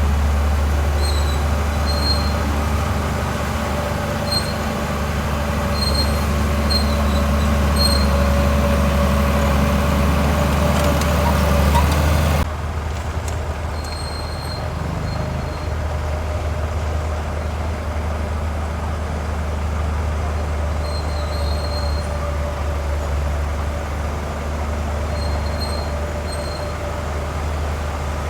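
Heavy diesel earthmoving machinery running steadily, a deep engine drone with a held whine above it. About twelve seconds in the sound changes abruptly and comes out duller, then carries on steady.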